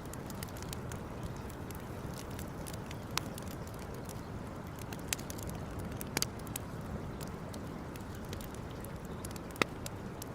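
Wood campfire crackling, with a handful of sharp pops, the loudest near the end, over a steady rushing noise.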